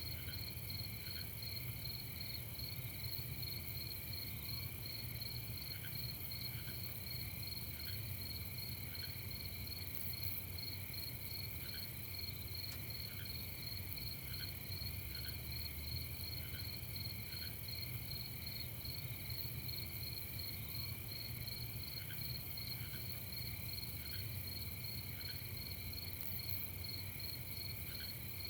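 Night chorus of crickets trilling steadily in several pitches, with a lower short chirp recurring about once a second over a steady low rumble.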